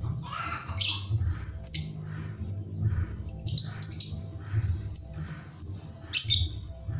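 Lovebird singing in sharp, high chirps at uneven intervals, about eight in all: the rapid 'ngetik' song kept by contest lovebirds. A low pulsing hum runs underneath.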